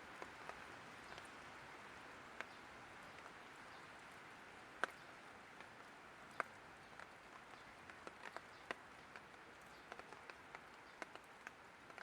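Light rain falling: a soft steady hiss with irregular sharp ticks of drops landing on a hard surface.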